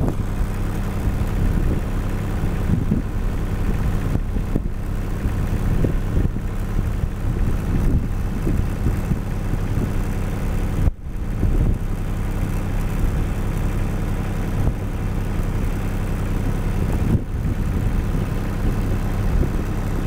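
A vehicle engine idling steadily close by, with wind gusting on the microphone; the sound dips briefly about halfway through.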